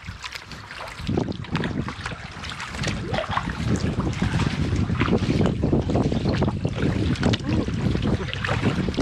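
Wind buffeting the microphone, building from about a second in and strong through the rest, over the splash and trickle of a canoe paddle working the water.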